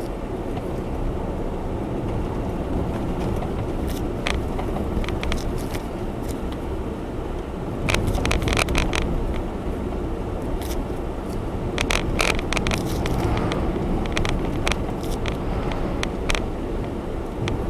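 Road and engine noise inside the cabin of a Honda Zest Spark kei car on the move, steady and low, with scattered small clicks and rattles, more of them in the second half.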